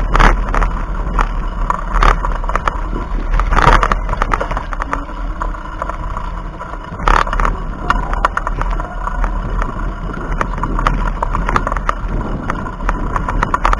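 Wind rushing over a chest-mounted action camera's microphone on a moving bicycle, with a steady low rumble of wind and road noise. Louder gusts or bumps come about 2, 4 and 7 seconds in.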